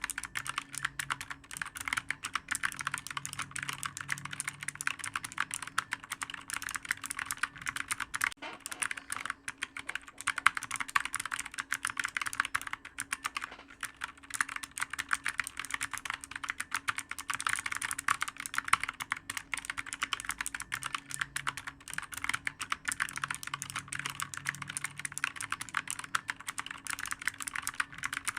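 Computer keyboard typed on quickly and without pause: a dense stream of clicky keystrokes, over a faint steady hum.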